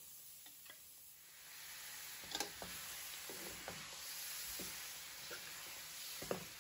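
Raw duck pieces sizzling in hot oil and fried curry masala in a metal wok-style pan while a metal spoon stirs them, with scattered scrapes and taps of the spoon against the pan. The sizzle builds about a second and a half in, as the meat meets the hot paste, then holds steady.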